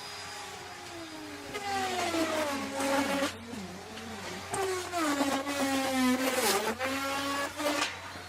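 Electric wood router running, its motor pitch dropping twice as the bit bites into the wood, each time with a burst of cutting noise, then climbing back as the load eases.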